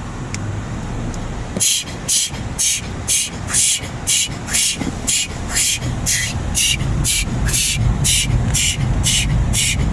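Automatic car wash machinery running around the car: a rhythmic hiss that pulses about twice a second over a low rumble, which grows stronger.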